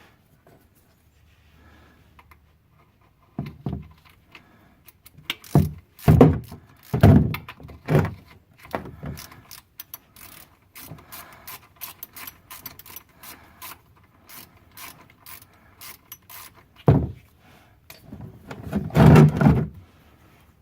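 Ratchet wrench with a 17 mm socket clicking in short runs as it backs out the oil drain bolt of a 2004 BMW 325xi's oil pan, with several louder clunks of tool and metal handling between the runs.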